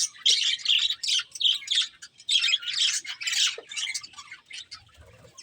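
Pet budgerigars chirping: a dense run of quick, high chirps and warbles that thins out and fades about four seconds in.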